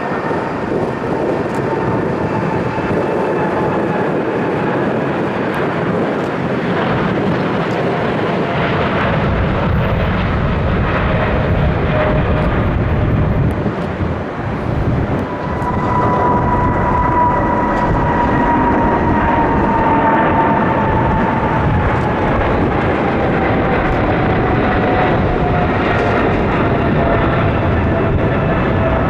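Jet airliner's engines passing close by, a steady heavy rumble that grows about a third of the way in, with a high engine whine that comes up strongly past the middle and slowly falls in pitch as the aircraft goes by.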